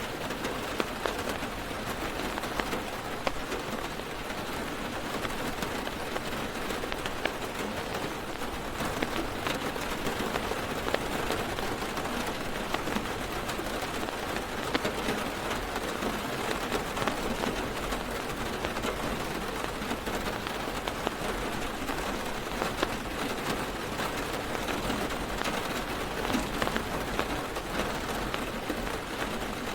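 Heavy rain drumming on a car's roof and windows, heard from inside the car: a steady dense patter of many fine drop impacts.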